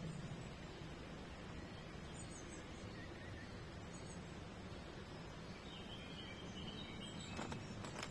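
Outdoor background hiss with faint, scattered high-pitched bird chirps from small songbirds, and a short run of whistled bird notes in the last two seconds. Two sharp clicks come near the end.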